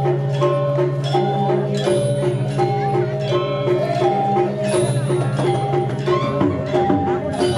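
Balinese gamelan music: bronze metallophones and gongs playing a fast repeating pattern on an even pulse of about five strokes a second over a sustained low ringing tone.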